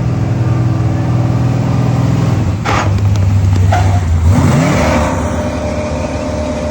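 Large engine running steadily. About two and a half seconds in its pitch shifts, with two short bursts of hiss, and then it settles into a slightly quieter steady run.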